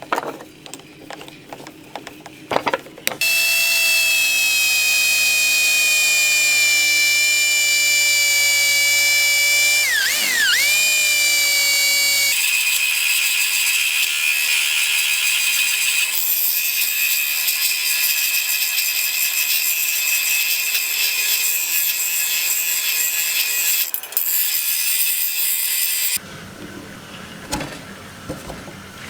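An electric power tool's motor whining at high speed, its pitch dipping sharply and recovering about ten seconds in as it is loaded against the work, then running on until it stops near the end. Light clicks and scrapes of handling come before it starts and after it stops.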